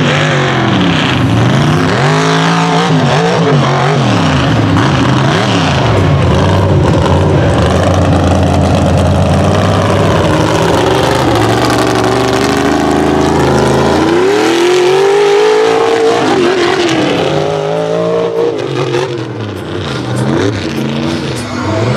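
Mega mud truck's engine revving hard, the revs climbing and dropping again and again, with a long climb about two thirds of the way through.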